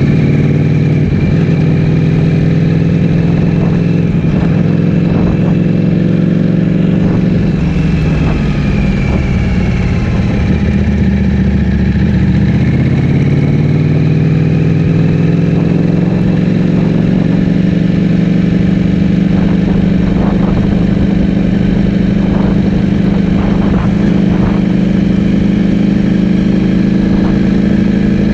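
Ducati Streetfighter V4S's V4 engine running through an Akrapovic full-system exhaust under way. The engine note drops about eight seconds in, climbs back a few seconds later and then holds steady.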